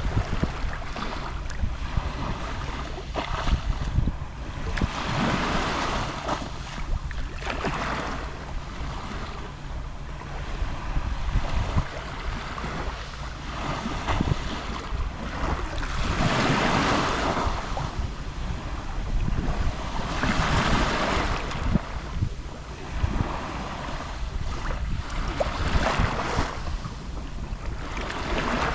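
Gentle Mediterranean sea waves lapping on the shore, each wash swelling and fading every few seconds, over a steady low rumble of wind on the microphone.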